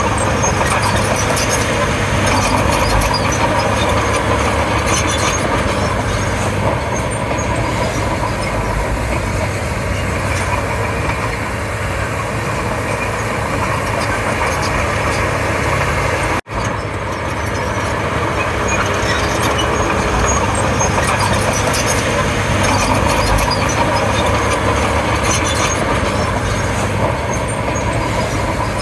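Komatsu D31P bulldozer working, its diesel engine running steadily under load. The sound breaks off for a split second about sixteen seconds in.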